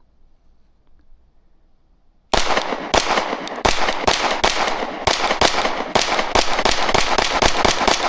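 Kimber 2K11 Pro 9mm pistol fired in a fast string of shots, starting about two seconds in and continuing without a break, several shots a second.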